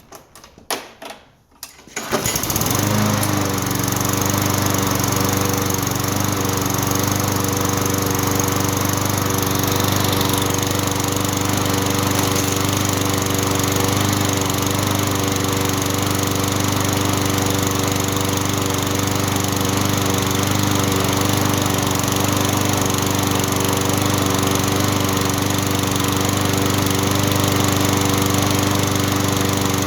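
A 190cc Briggs & Stratton single-cylinder mower engine comes in about two seconds in, after a few faint knocks, and then runs steadily at an even speed without surging. This is a sign that fuel is flowing again now that the clogged jet in the carburettor's fuel bowl bolt has been cleaned.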